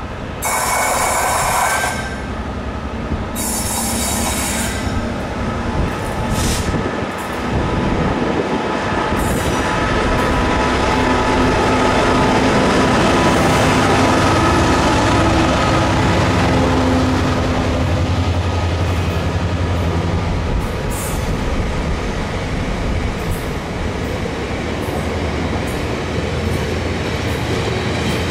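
Class 66 diesel-electric freight locomotive passing close by, its engine loud as it goes past, followed by a long train of bogie hopper wagons rumbling over the rails.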